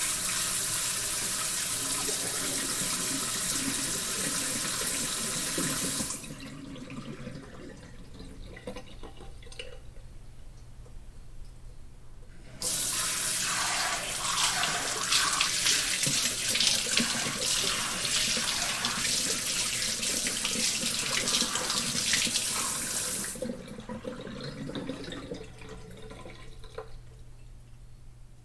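A water tap running full into a sink, shut off about six seconds in, leaving scattered small trickles and drips. It is turned on again at about the halfway point, runs for about ten seconds, and is shut off again.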